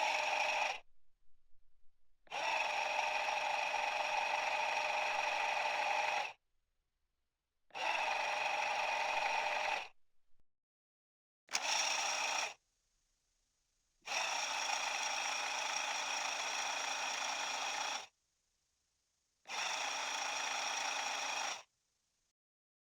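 Electric shaver recording played back pitched down two octaves, heard as a steady hum with several held tones. It comes in about six separate runs of one to four seconds each, with silent gaps between.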